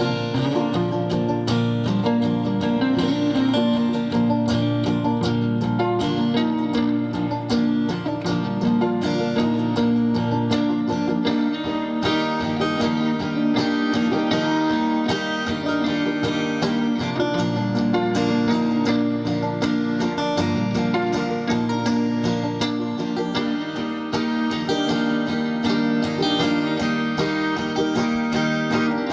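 Instrumental break in a live Americana song: a band playing with acoustic guitar and other plucked strings picking a steady, busy pattern over sustained chords.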